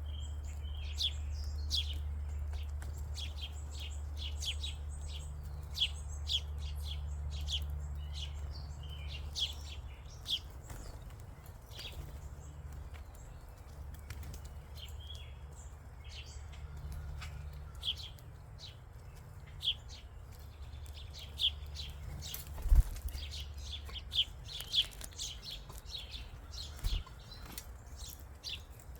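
Small wild songbirds chirping in quick short notes, with wings fluttering. A sharp knock comes a little over twenty seconds in, and a low steady rumble runs underneath.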